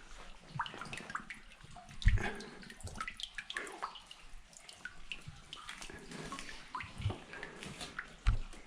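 Water splashing and sloshing as someone wades through a flooded passage in waders, with scattered drips. There are dull thumps about two seconds in, around seven seconds in, and near the end.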